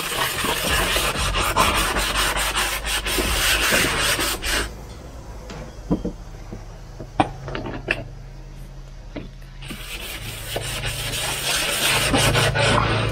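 Hand wet-sanding of a motorcycle plastic panel with water sandpaper, a rough rubbing scratch of strokes on the plastic. It stops for several seconds in the middle, with only a few light clicks, then starts again near the end.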